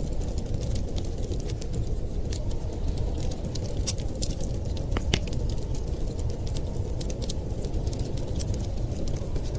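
Wood fire crackling, with many irregular small pops and snaps and one sharper pop about five seconds in, over a steady low rumble.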